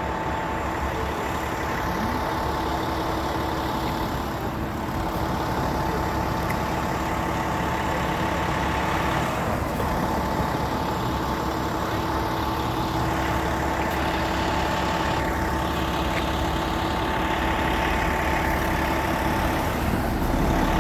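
Fire truck engine idling at a steady rumble, with a constant whine over it.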